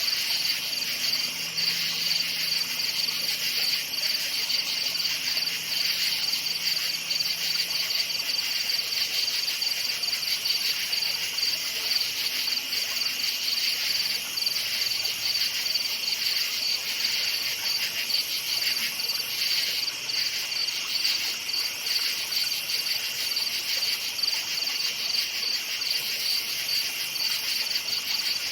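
A night chorus of crickets chirping steadily in fast, high-pitched pulses.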